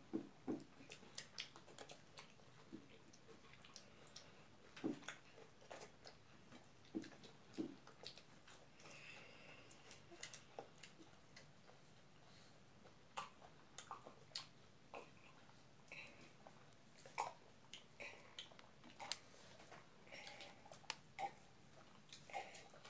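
Faint chewing and eating sounds as people eat rice and singju salad by hand: scattered small mouth clicks and smacks, a few every second or two.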